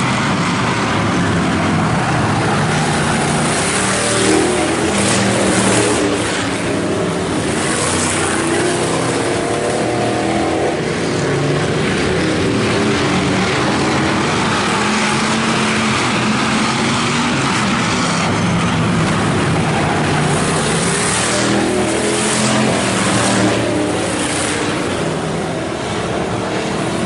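A field of IMCA Hobby Stock race cars running at racing speed on a dirt oval. The engines rise and fall in pitch and swell louder as cars go by.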